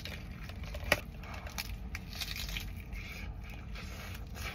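Close-up mouth sounds of a person biting into and chewing a large mouthful of bacon cheeseburger, in irregular wet, crushing strokes, with one sharp click about a second in.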